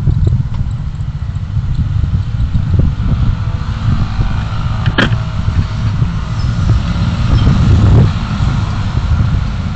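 Steady low engine and road rumble of a car being driven, with one sharp click about five seconds in and a brief swell in loudness near the end.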